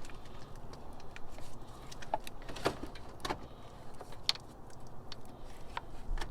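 Scattered light clicks and knocks, a few louder ones near the middle, as a new car battery and its fittings are handled into place in the engine bay.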